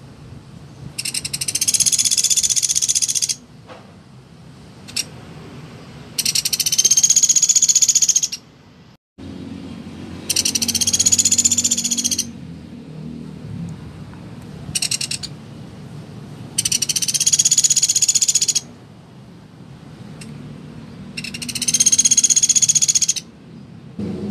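Pelatuk beras woodpecker calling: five loud, high, buzzy trilled calls of about two seconds each, one every four to five seconds, with a couple of short single notes between them.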